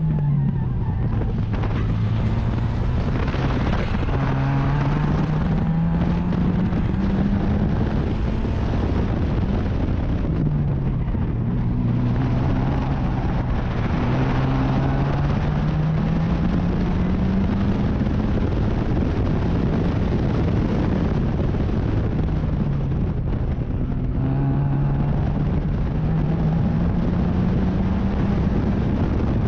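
Racing sports car engine heard onboard under heavy wind and road noise, its pitch climbing steadily through long pulls and dropping back twice, about a third and three quarters of the way in, as the car brakes and downshifts before accelerating again.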